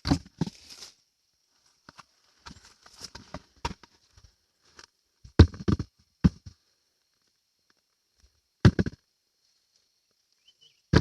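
Irregular rustling and crunching in about four short clusters, like footsteps and handling among garden plants, over a faint steady high-pitched hiss.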